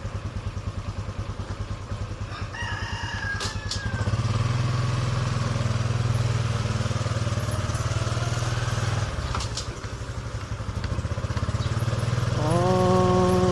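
Honda RS125 FI motorcycle's single-cylinder engine running steadily, getting louder about four seconds in. A rooster crows once, about three seconds in.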